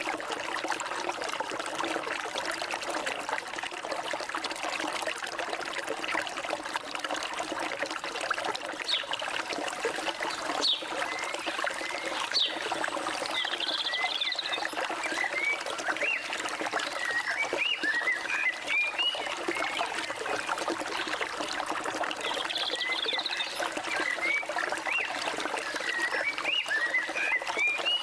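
Forest stream water trickling and flowing steadily, with birds singing over it: many short rising chirps, more of them in the second half.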